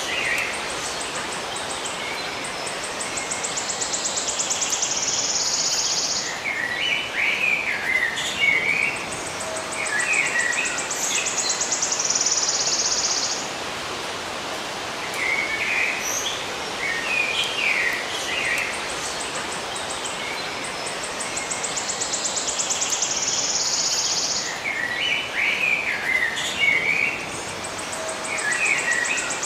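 Songbirds singing: clusters of short warbling chirps alternate with a high, rapid buzzing trill that swells for a few seconds and then cuts off, four times. A steady hiss runs underneath.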